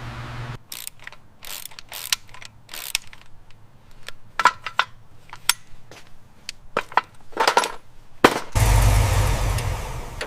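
Irregular sharp metallic clicks and knocks of hand tools and parts being worked in a garage. About eight and a half seconds in, a loud steady rush of machine noise with a low rumble starts.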